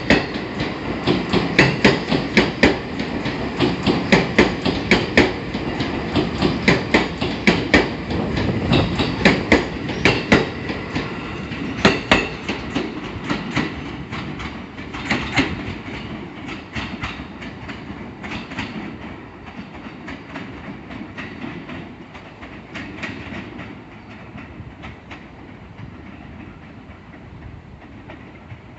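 A train running past on the rails, its wheels clattering over the rail joints in a quick, regular clickety-clack over a rumble. The clatter is loudest for the first half and fades gradually as the train draws away or slows.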